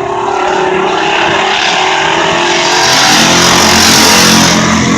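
Compact-class race car at full throttle on a qualifying lap, its engine getting louder as it nears and passing close by about four seconds in.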